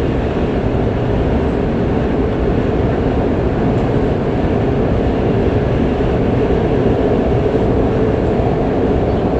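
Qingdao Metro Line 8 train running steadily at speed, heard from inside the passenger car: a continuous low rumble of wheels on rail and running gear.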